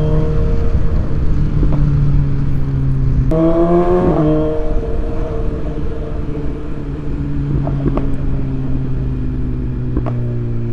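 BMW S1000XR's inline-four engine through a full Akrapovic titanium exhaust, heard while riding. The revs ease down slowly, jump sharply about three seconds in and fall back within a second, then rise in short steps near the end as the rider shifts down.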